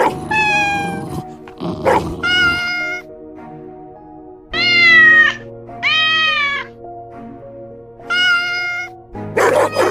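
A cat meowing five times in long drawn-out meows over steady background music, with a few short rough bursts of noise between them.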